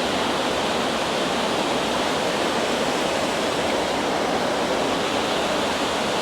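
Whitehorse Falls, a waterfall, rushing in a steady, unbroken roar of falling water.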